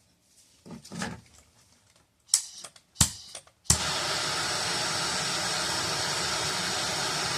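A few handling clicks and a sharp click, then a pencil torch lights suddenly a little past halfway and its flame hisses steadily while it heats copper pipe for soldering.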